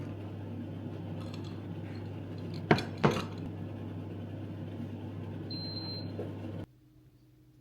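An electric appliance humming steadily, with two sharp clinks about three seconds in and a short high beep near the end, then the hum cuts off suddenly.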